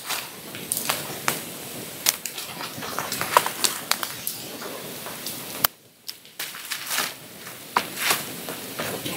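Wood campfire crackling, with irregular sharp pops and snaps over a steady hiss. It briefly drops out about six seconds in.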